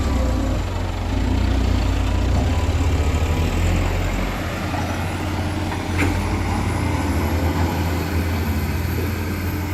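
Heavy diesel engine of earthmoving machinery running steadily, with a single sharp knock about six seconds in.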